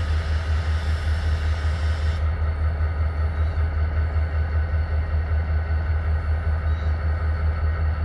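EMD SD40-2 diesel locomotives, 16-cylinder two-stroke 645 engines, running while shoving cars: a steady low rumble with a regular throb several times a second.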